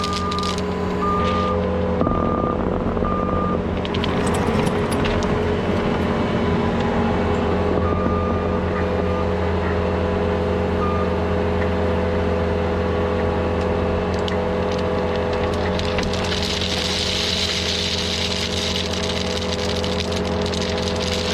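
Diesel engine of heavy earthmoving equipment running steadily. A reversing alarm beeps four times, about once a second, in the first three seconds, with a few fainter beeps later.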